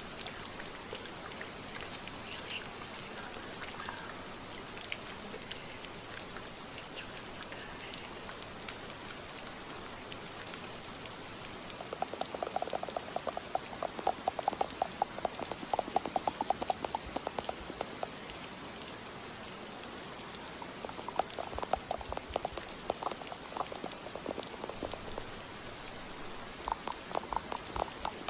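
Steady rain hiss, with fingers scratching and raking through the hair and scalp of a mannequin head in runs of fast crackly strokes starting about twelve seconds in and recurring twice.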